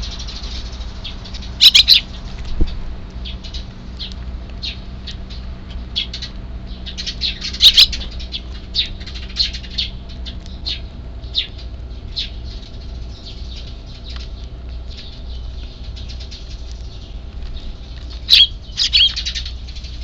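Eurasian tree sparrows chirping in quick, repeated short calls, with louder flurries about two seconds in, around eight seconds and near the end.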